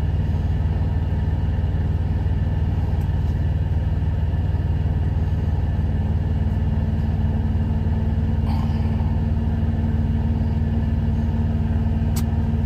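Semi-truck's diesel engine idling steadily, heard from inside the cab, with a couple of light clicks near the end.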